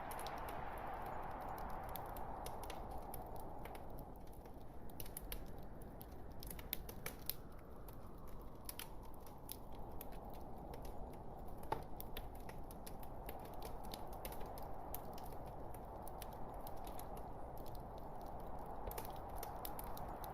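Burning log fire crackling: frequent irregular snaps and pops over a steady hiss of flames, with a sharper pop about 12 seconds in.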